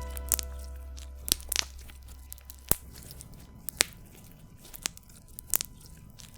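Slime being pressed and worked by hand, giving sharp little clicks and pops at irregular intervals, about a dozen in all.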